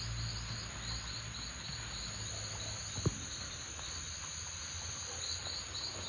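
Insects calling in a tropical garden: a steady high buzz with a pulsed chirping a few times a second that drops out in the middle and returns near the end. A single sharp click sounds about three seconds in.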